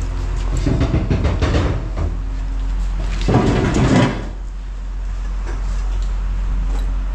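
A steady low rumble, like an engine idling, with bursts of clattering and knocking; the loudest clatter comes about three and a half seconds in.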